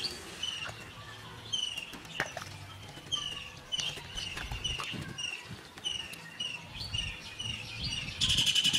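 A bird calling over and over with short, falling chirps, about two a second, with faint clicks in between. Near the end a louder, buzzing sound starts.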